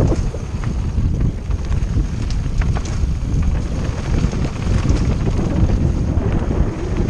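Wind buffeting the microphone of a camera carried on a fast mountain-bike descent, over a steady rumble from the bike, with a few sharp clicks near the middle.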